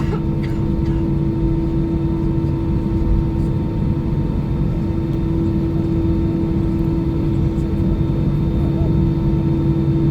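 Airbus A319 cabin noise with the jet engines running: a steady low rumble with a constant droning hum, with a couple of light clicks at the very start.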